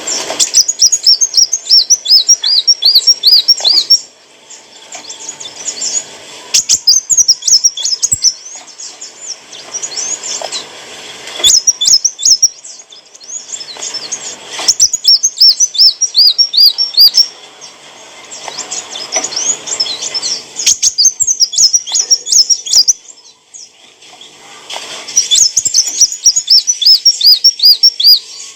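A kolibri wulung sunbird singing: bursts of rapid, high-pitched chirping and trilling notes repeated in quick series, coming every few seconds with quieter gaps between.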